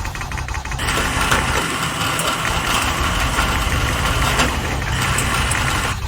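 A steady mechanical whirring noise that starts about a second in and stops near the end.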